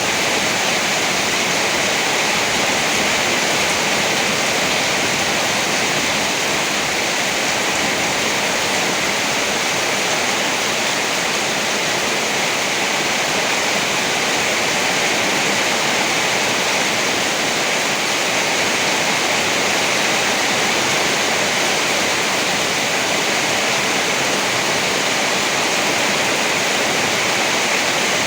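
Steady rain, an even hiss that does not rise or break, with no thunder.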